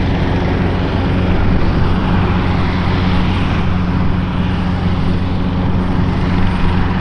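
Aircraft engine running steadily: a loud, even drone, a low hum under a broad rushing noise.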